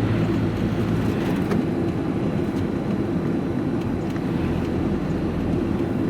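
Diesel engine of a moving vehicle running steadily, heard from inside the vehicle, with road noise.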